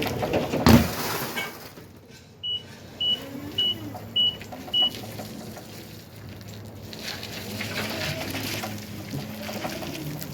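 Five short, high electronic beeps about two-thirds of a second apart, coming a couple of seconds after a single sharp knock, over a low background of clatter and hum.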